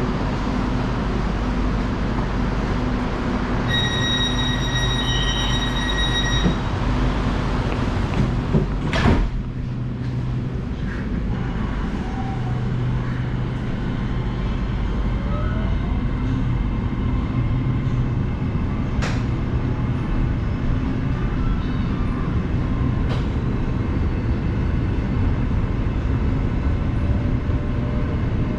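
SRT Red Line electric commuter train running with a steady rumble and hum. A high, steady beep sounds for a couple of seconds near the start, and there are a few sharp clicks later on.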